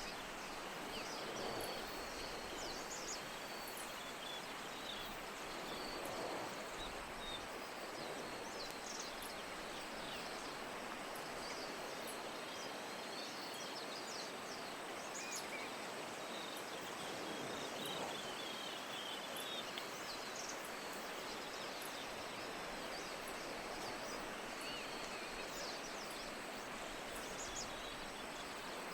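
Steady hiss of falling rain, with faint, short high-pitched chirps scattered throughout.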